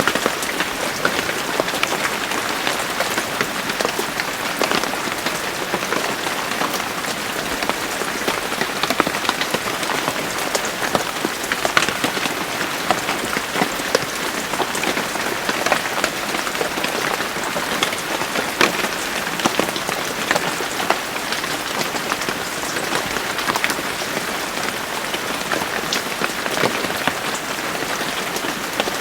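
Steady rain falling on a hard surface, a constant hiss with many separate drop impacts ticking through it.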